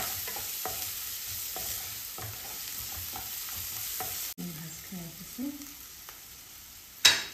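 Onions, ginger-garlic paste and ground spices sizzling in hot oil in a pan while being stirred, with short scraping taps of the stirrer against the pan. A sudden loud burst of hiss near the end.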